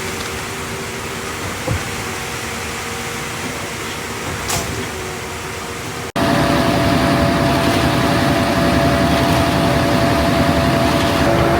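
Concrete mixer truck running with a steady mechanical hum. About six seconds in there is a sudden cut to a louder, deeper engine drone.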